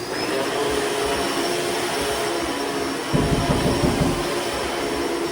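Vacuum cleaner motor running steadily, with a high thin whine over the motor noise; a low rumble joins in for about a second around three seconds in.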